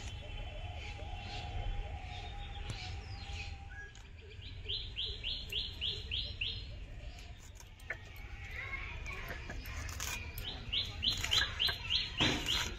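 A bird calling in two quick runs of about eight short, sharp, high notes each, one in the middle and one near the end.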